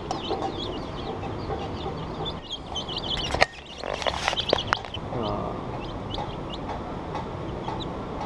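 Birds chirping and clucking in many short, quick calls over a low steady background, with a few sharp clicks about three and a half seconds in.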